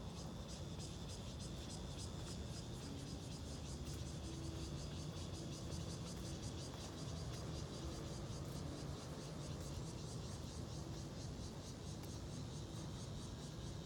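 Insects chirping in a fast, even pulsing rhythm, with a steady low rumble beneath.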